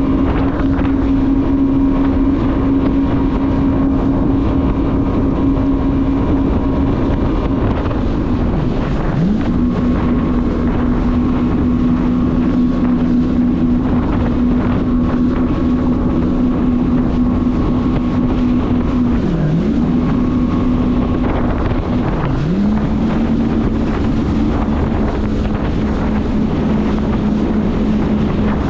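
Jet ski engine running at a steady cruising speed, with wind buffeting the microphone and rushing water. The engine pitch drops sharply and climbs back three times, about a third of the way in, about two-thirds of the way in and shortly after, as the throttle is let off and opened again.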